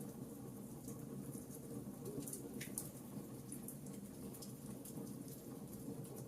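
Fire crackling in a fireplace: a steady low rumble of burning with small, scattered pops and crackles a few times a second.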